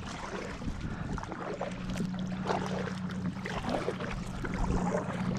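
Water splashing and dripping around a kayak moving on a lake, over a steady low hum.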